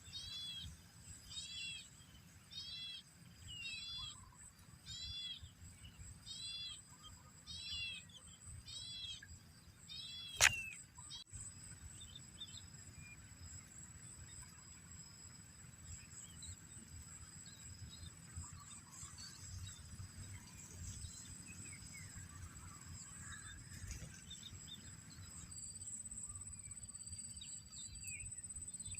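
A bird repeats a short arched call roughly once a second for about the first ten seconds, over a steady high insect drone. A single sharp click about ten and a half seconds in is the loudest sound; after it the calls stop and the insect drone goes on with a few faint chirps.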